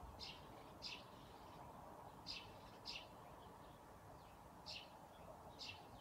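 A bird giving short, high chirps in pairs about half a second apart, three pairs in all, over a quiet steady hiss of background noise.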